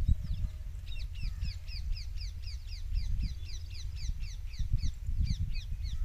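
A bird calling in a quick run of short, falling notes, about five a second, starting about a second in and stopping just before the end, over a low, uneven rumble.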